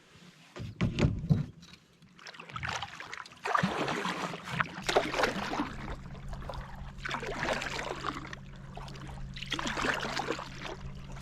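Water splashing around a canoe in repeated bursts every couple of seconds, with a few hollow knocks on the hull about a second in. A steady low hum runs underneath from about halfway through.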